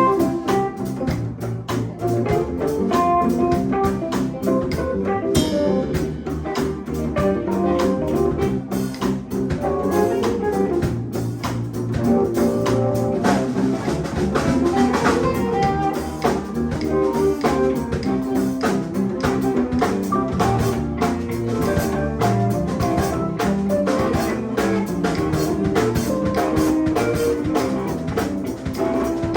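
Live band playing instrumentally with electric guitar over a drum kit and bass, in a jazzy blues groove.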